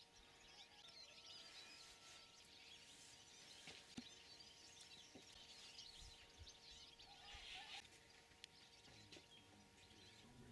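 Near silence outdoors: faint, scattered bird chirps over a low steady hum.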